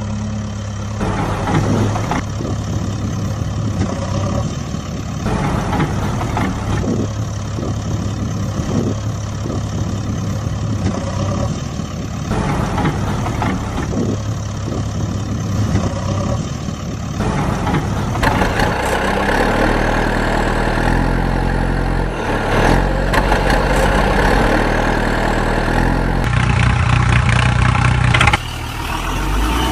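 Heavy vehicle engine running and idling, in a steady pattern that repeats every few seconds. About eighteen seconds in it changes to shifting, harsher engine tones.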